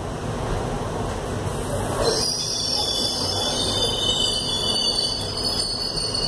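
Passenger express train pulling slowly out of the station, heard from on board: a steady rumble of wheels on rails, joined about two seconds in by a high metallic squealing from the wheels.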